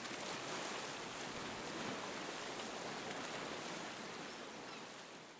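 Steady rushing outdoor ambience, an even noise with no distinct events, fading out near the end.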